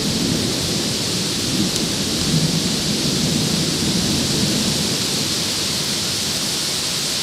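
Heavy rain hissing steadily in a thunderstorm, with a low rumble of thunder rolling through the first few seconds and fading out.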